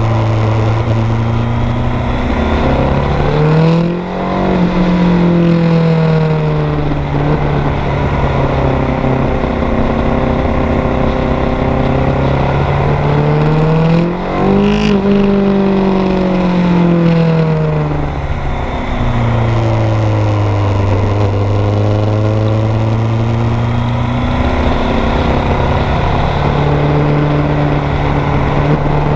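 Kawasaki GPZ900R's 908 cc inline-four engine running under way, its pitch climbing and falling as the bike speeds up and slows. There are brief dips in loudness about four and fourteen seconds in, and a slow fall in pitch after about fifteen seconds before it climbs again near the end.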